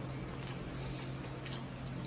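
A steady low hum with a couple of faint short clicks from eating crispy fried pork knuckle, near the start and about a second and a half in.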